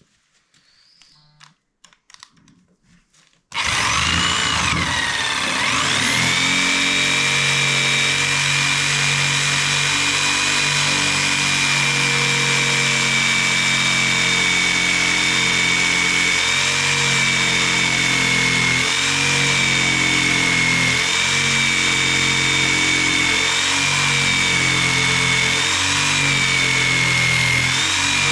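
Electric jigsaw starting up about three and a half seconds in, its whine rising and then holding steady as it cuts through a thick wooden beam. The cut is going slowly and hard, and the blade tends to heat up.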